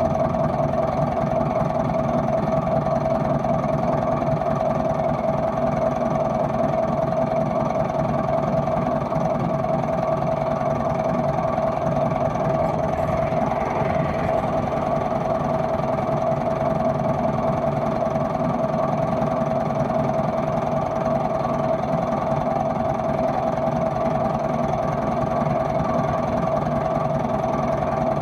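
An engine running steadily at idle, a constant unchanging hum.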